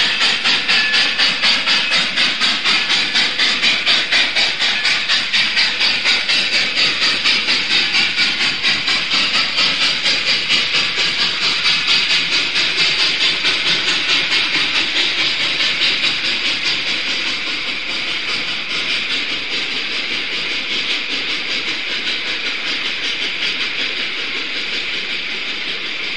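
A train running on rails: a steady rhythmic pulsing with hiss, about two to three beats a second, growing fainter about two-thirds of the way through.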